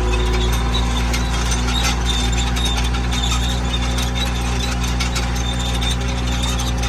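Caterpillar skid steer's diesel engine running steadily.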